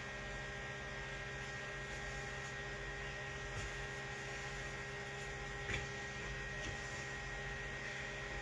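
Steady electrical hum with several constant tones, and a few faint short ticks, the clearest a little past halfway.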